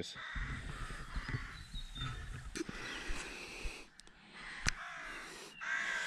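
Birds cawing in the background, with a low handling rumble and a few sharp clicks, the loudest about four and a half seconds in.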